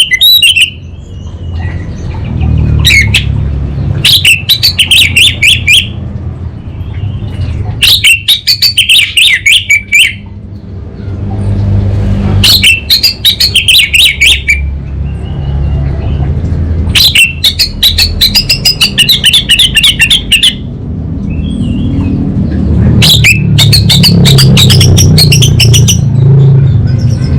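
Orange-headed thrush singing: repeated bursts of fast, chattering high notes, each phrase one to three seconds long, with short pauses between, over a steady low rumble.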